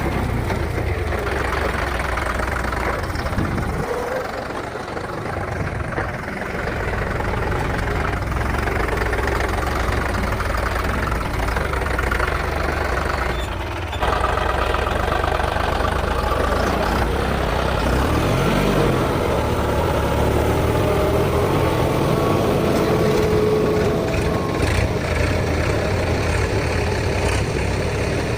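Tractor diesel engines running steadily, with an abrupt change a little past halfway.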